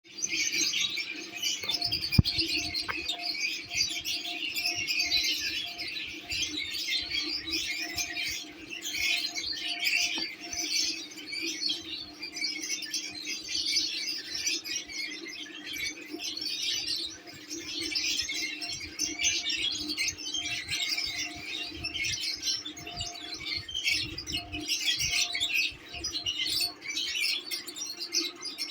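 A group of lovebirds chattering and chirping without pause, a dense run of high, shrill calls, over a steady low hum.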